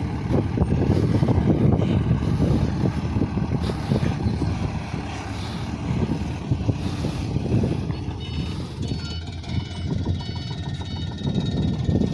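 Diesel engine of a Mitsubishi Canter HDX dump truck running steadily, a dense low rumble. From about eight seconds in, a few short high tones come and go over it.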